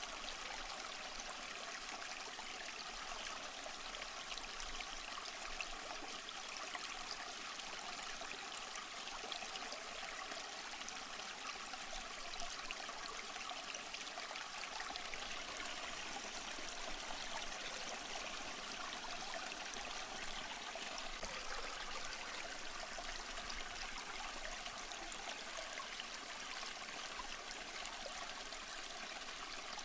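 Small creek flowing and trickling over rocks: a steady babble of running water with no breaks.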